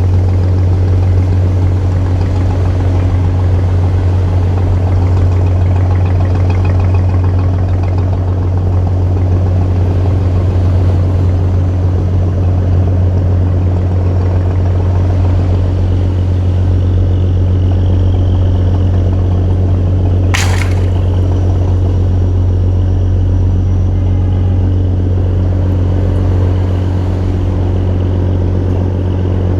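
Boat engine running steadily at an even speed, a constant low hum. One brief sharp sound about twenty seconds in.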